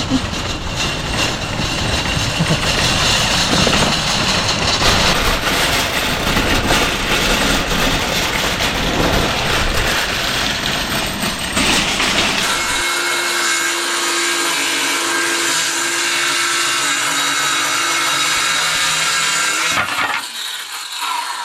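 Power tools working wood. The first half is loud, dense and noisy; about 13 s in it changes to a steadier, higher whine with a clear pitch, which stops shortly before the end.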